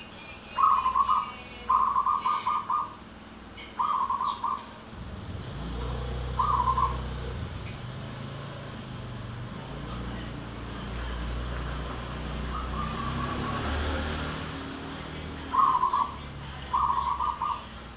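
Zebra dove (perkutut) cooing in about seven short phrases of quick, pulsed coos. A low motor rumble swells and fades through the middle, between the bursts.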